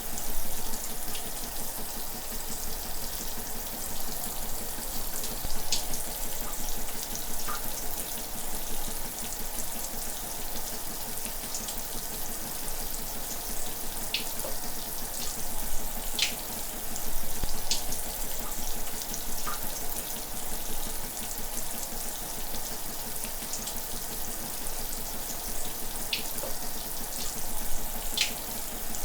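Shower water running in a steady hiss of spray, with a few brief high-pitched ticks every few seconds.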